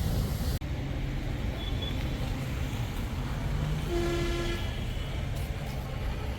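Steady low mechanical rumble with some hiss, and a short horn-like tone about four seconds in.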